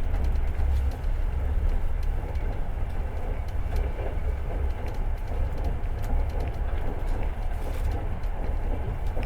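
Long-distance passenger train running along the rails, heard from inside a carriage: a steady low rumble of wheels and carriage.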